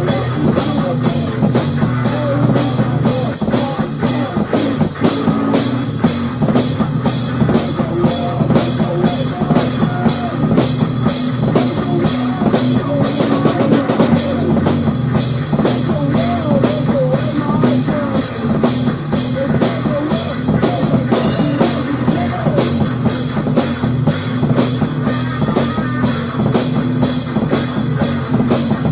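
Loud rock music with a full drum kit keeping a steady beat under a dense band sound.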